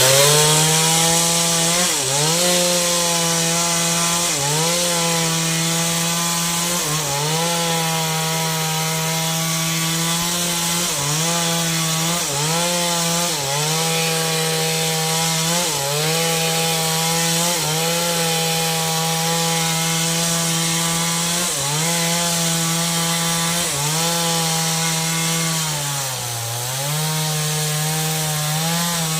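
Two-stroke chainsaw running at high revs while cutting through wood. Its pitch sags briefly every few seconds as the chain bites under load, then recovers, with one deeper drop near the end.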